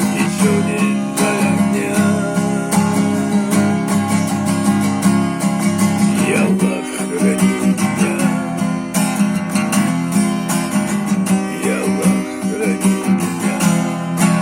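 Acoustic guitar strummed in a steady rhythm, playing the song's instrumental close with no singing.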